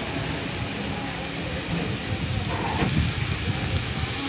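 Chopped onions, capsicum and green chillies frying in hot oil in a wok, with a steady crackling sizzle.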